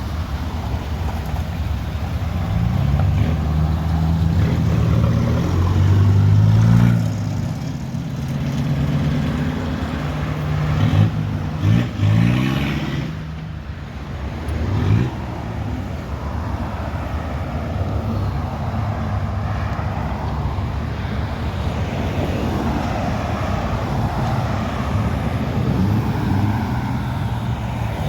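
Car engines running as cars drive off, with a few short, sharp revs near the middle.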